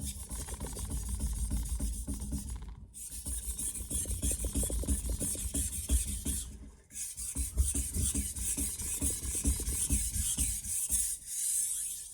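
Steel knife blade scraping back and forth across a wet soaking whetstone in quick strokes, a scratchy rasp. It comes in three runs of strokes with brief pauses about 3 and 7 seconds in.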